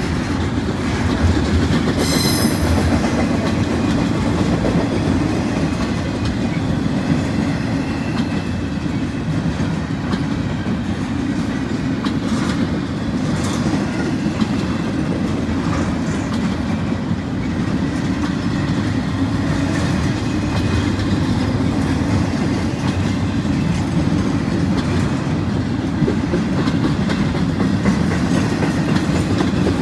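Norfolk Southern freight cars rolling steadily past, wheels rumbling and clacking over the rail joints. A brief high-pitched wheel squeal comes about two seconds in.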